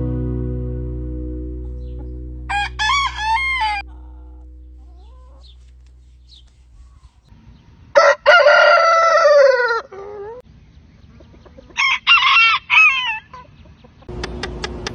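Rooster crowing: one long, loud crow about eight seconds in that drops in pitch at its end, with shorter, higher calls before and after it. A guitar chord fades out at the start.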